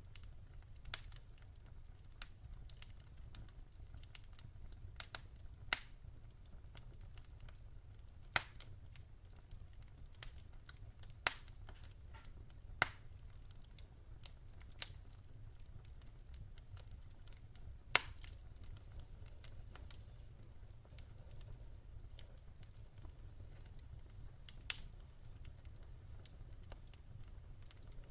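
Campfire crackling: irregular sharp pops and snaps of burning wood, a few of them louder, over a steady low rumble of the fire.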